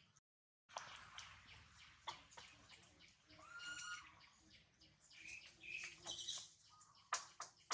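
Quiet outdoor ambience of small birds chirping in short, high, scattered calls, with a longer thin squeal from about three and a half to four seconds in. The sound drops out completely for about half a second near the start.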